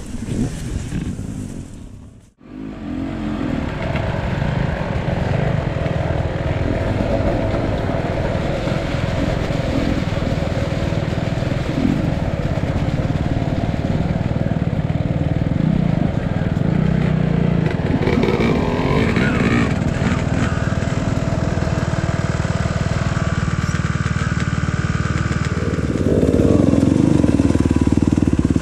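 Enduro dirt bike engine running, with a sudden drop-out about two seconds in. The engine then runs steadily and gets louder near the end.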